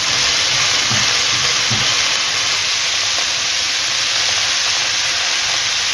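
Diced chicken breast sizzling steadily in olive oil in a frying pan.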